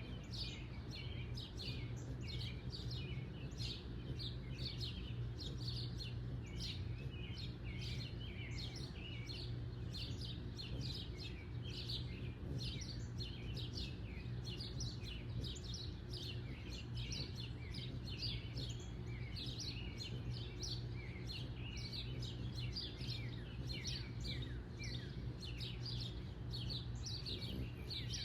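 Many small birds chirping continuously, a dense run of short, quick downward chirps several times a second, over a steady low hum.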